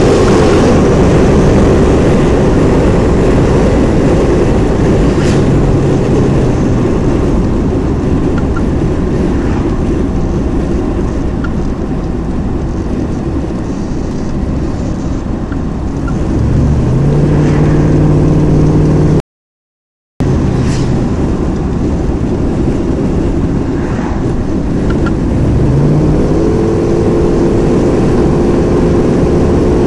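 Turbocharged car's engine and road noise heard from inside the cabin while driving at speed, the engine note rising as it accelerates about halfway through and again near the end. The sound cuts out completely for about a second just before the second rise.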